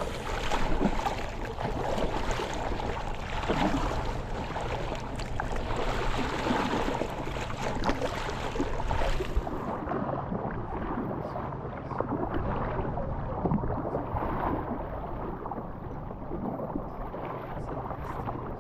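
Sea water lapping and splashing around a kayak, with wind buffeting the microphone. The high hiss drops away about halfway through, leaving a duller wash of water and wind.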